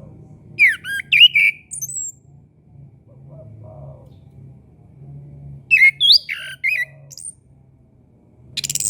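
Chestnut-capped thrush (anis kembang) singing: two short bursts of quick, varied whistled notes a few seconds apart, over a faint low hum. A harsh hissing burst comes right at the end.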